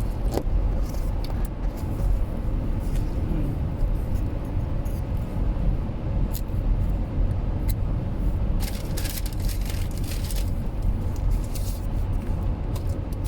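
Car cabin road and engine noise, a steady low rumble while driving, with a few short hissy sounds about nine to ten seconds in.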